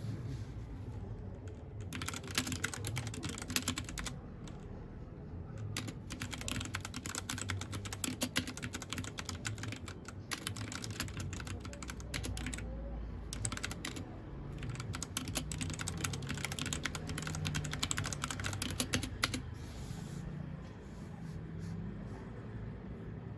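Mechanical keyboard typing: fast runs of key clicks in several bursts with short pauses, stopping a few seconds before the end, over a low steady hum.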